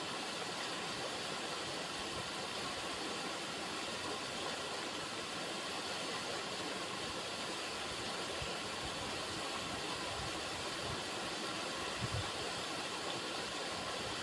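River water running steadily, a continuous even rush. Near the end there is one brief low thump.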